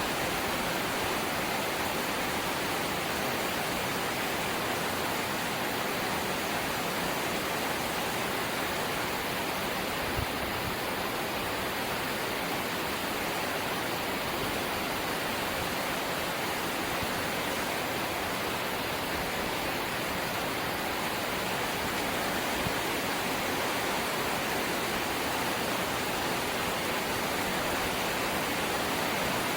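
Steady rain falling on a corrugated zinc roof: a dense, even hiss that holds at one level, with one brief faint tap about ten seconds in.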